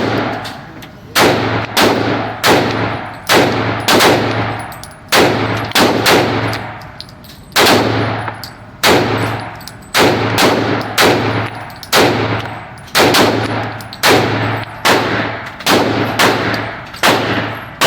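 Handgun shots fired one after another at an uneven pace of about one to two a second. Each crack trails off in a ringing echo.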